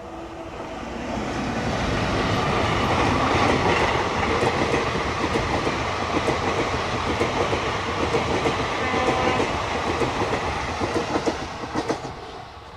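A passenger train passes close by on the adjacent track, its wheels clattering over the rail joints with a rapid clickety-clack. The noise builds over the first couple of seconds as the locomotive and coaches reach the microphone, then falls away near the end as the last coaches go by.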